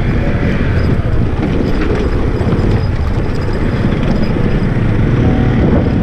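Motorcycle running steadily while being ridden on a rough dirt trail, its engine mixed with a dense, loud rumble.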